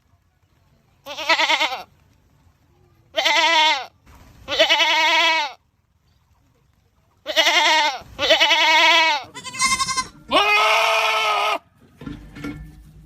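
Goats screaming: a series of about seven loud, wavering, bleating calls, each half a second to a second long, with short silences between them.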